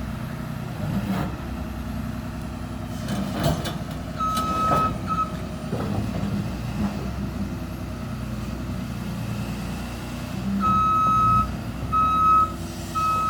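LiuGong 922F excavator's Cummins six-cylinder diesel running, with a few metallic clanks. Its travel alarm beeps once about four seconds in and three times near the end.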